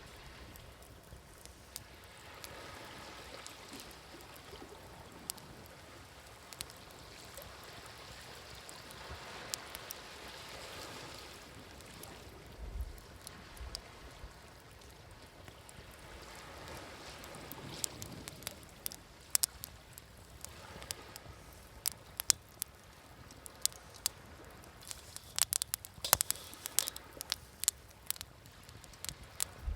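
Wood fire crackling with sharp pops, sparse at first and coming thick and fast in the last few seconds, over waves washing in on a shore in slow, soft swells.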